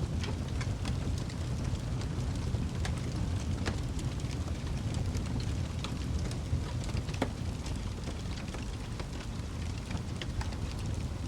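Wood fire crackling in a fireplace: scattered sharp pops and snaps, a few of them louder, over a steady low rumble of the burning.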